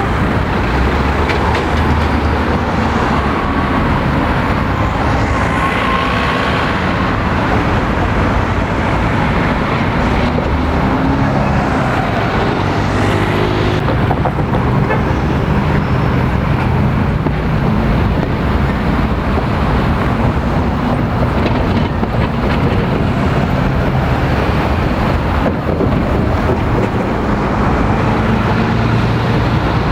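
Steady city street traffic at a road junction: engines running and vehicles passing continuously, with a few faint rising and falling whines.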